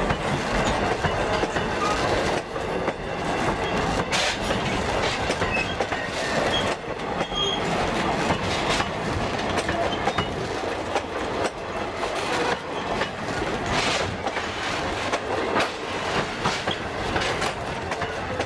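Train cars rolling steadily past, wheels clicking over the rail joints, with brief high wheel squeals a few times.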